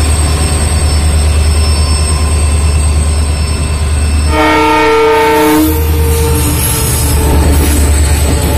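Loaded goods wagons rumbling past close by, loud and low, with a locomotive horn sounding once for just over a second near the middle.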